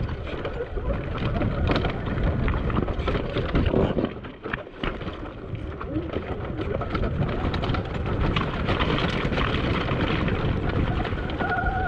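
Wind buffeting an unshielded GoPro microphone while an electric dirt bike rides over a rough, rocky trail, with frequent knocks and rattles from the bike and its tyres on rock. There is no engine note, and a brief steady whine comes near the end.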